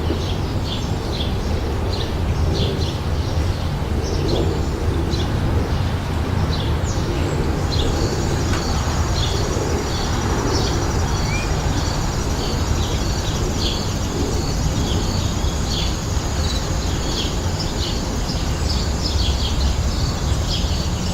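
Many small birds chirping, with short high chirps overlapping throughout, over a steady low rumble. A thin, steady high-pitched sound joins in about eight seconds in.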